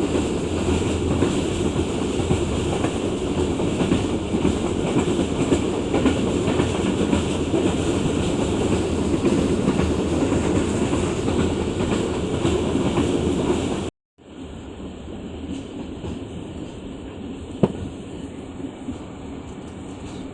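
A moving train's steady running noise on the rails, loud and even. It cuts off abruptly about 14 seconds in and gives way to a quieter rumble with a single sharp knock a few seconds later.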